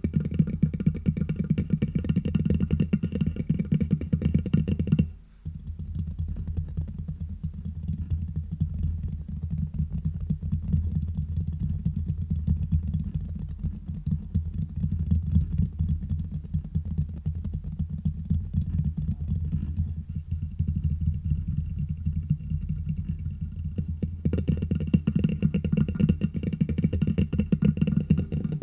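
Fingers rapidly tapping and scratching directly on a microphone: a dense, fast patter of hits with a heavy low thud. About five seconds in it breaks off for a moment and comes back duller, without its crisp top, then turns bright again about 24 seconds in.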